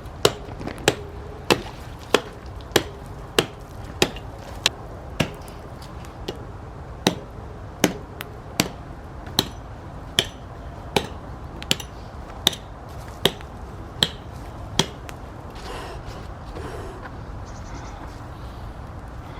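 Axe blows struck at a steady rhythm, about one and a half a second, with a brief pause partway through, ending about three-quarters of the way in.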